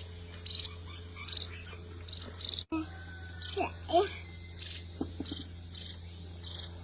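Insects chirping in short chirps that repeat about twice a second, with a few brief gliding calls around the middle.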